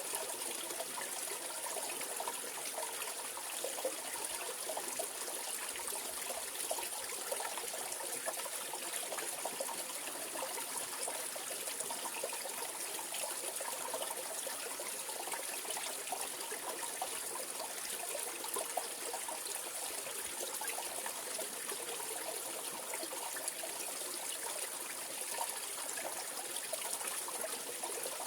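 Mountain valley stream flowing and trickling over rocks, a steady continuous rush of water.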